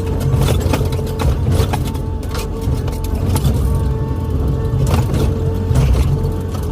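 Excavator's diesel engine running under load, with a whine that comes and goes and repeated short clanks and knocks.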